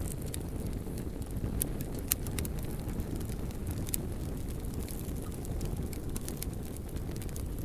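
Wood fire burning: a steady low rush of flame with scattered sharp crackles and pops, the loudest pop about two seconds in.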